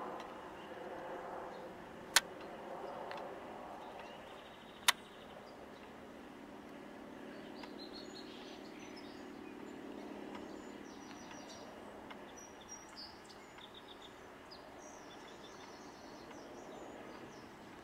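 Faint outdoor ambience with small birds chirping now and then, high-pitched, from about seven seconds in. Two sharp clicks, about two and five seconds in, are the loudest sounds.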